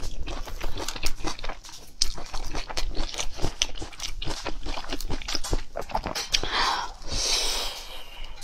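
Close-miked eating of grilled skewered meat: chewing and biting with many quick, sharp clicks and wet mouth noises, and a brief rushing noise near the end.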